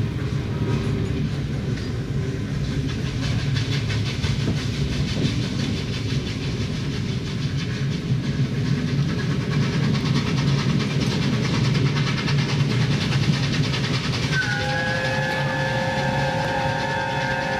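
Train running at speed, its wheels clattering rhythmically over the rail joints above a steady rumble. Near the end a multi-note whistle sounds and is held.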